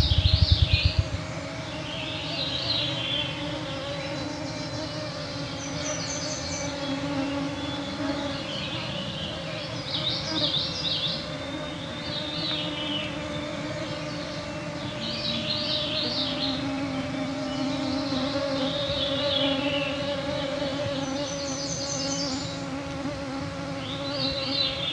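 Whine of many mosquitoes flying close around the microphones: a steady, wavering hum, with songbirds singing short high phrases every few seconds. A rapid low fluttering thump, the loudest sound, stops about a second in.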